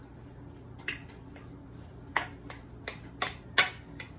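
A spoon clicking and tapping against a bowl as sauce is spooned onto rice: a single click about a second in, then a run of about six sharp clicks in the second half.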